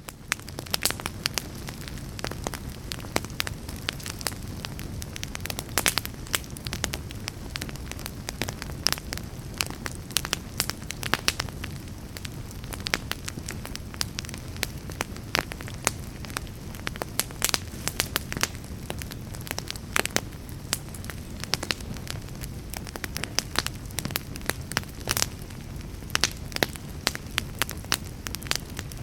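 Fire burning in a fireplace: dense, irregular crackling and sharp pops over a steady low rumble of the flames.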